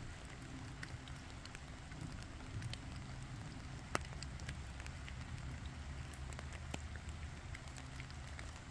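Light rain falling on the surface of a creek pool, heard as scattered irregular drop ticks, with one sharper tick about four seconds in. A low steady rumble runs underneath.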